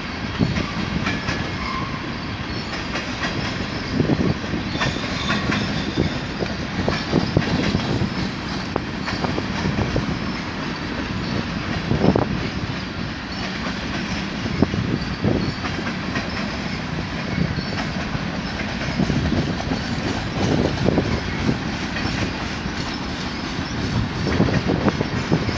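Freight train cars rolling past: the steady rumble of covered hopper cars and loaded flatcars, with the wheels clacking over rail joints in uneven knocks. The sharpest knock comes about halfway through.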